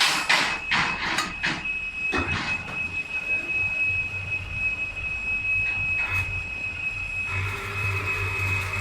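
Metal-fabrication shop noise: a quick run of sharp metal clanks in the first two seconds or so, then steady machinery running with a high whine and a low hum, and further tones joining near the end.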